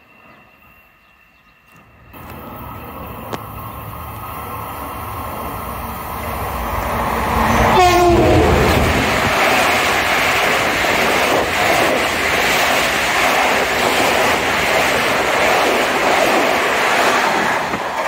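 Long Island Rail Road M7 electric train running past the platform. It grows louder as it approaches, gives a short horn blast about eight seconds in that falls in pitch as it goes by, then the cars pass with a loud, steady rush and rumble of wheels on rail.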